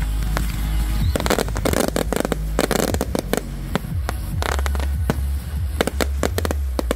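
Aerial fireworks going off in quick succession: a string of sharp bangs and crackles, several close together, over a steady low rumble.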